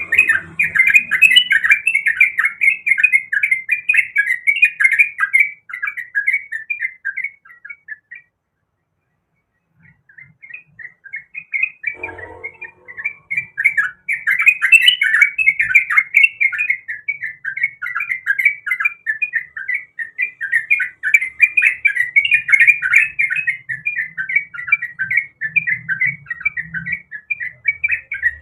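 Yellow-vented bulbul (trucuk) singing a fast, continuous chattering song. The song breaks off for about two seconds roughly a third of the way in, then resumes.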